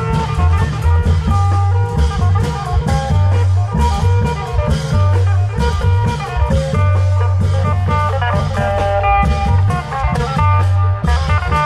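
Isan klong yao long-drum band music: drums and cymbals keep a steady, driving beat under a fast, busy melody line.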